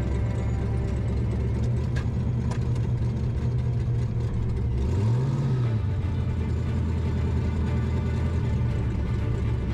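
Drag-racing truck engine running steadily, with one quick rev up and back down about five seconds in.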